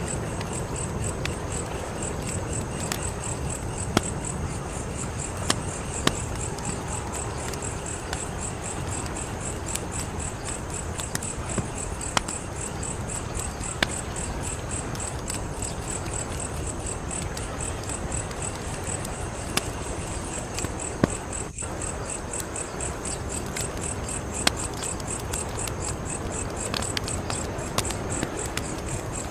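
Wood fire crackling, with sharp pops every second or two over a steady low rush of burning. Crickets chirp in a fast, even pulse.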